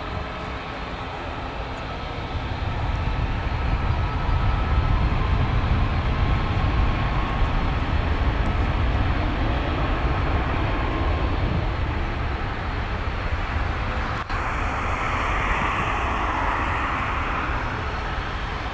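Ryanair Boeing 737-8200 MAX's CFM LEAP-1B jet engines at takeoff power on departure: a loud, deep rumble that swells over the first few seconds and holds steady. About three-quarters of the way through it breaks off abruptly into a hissier, higher rush.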